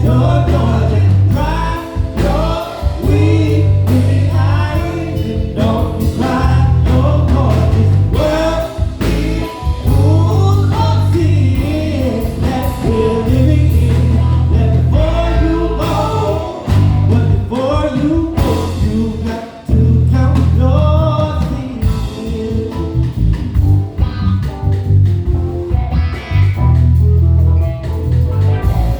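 Live band playing: a lead line bending and sliding over a bass playing heavy repeated notes and a drum kit keeping time.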